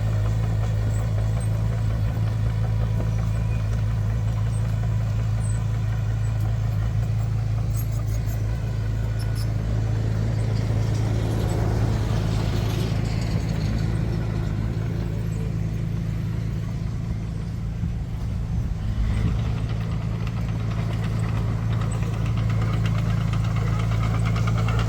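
Diesel engine of heavy earthmoving machinery running steadily with a deep, even hum; the sound gets rougher and noisier for a few seconds near the middle and again later on.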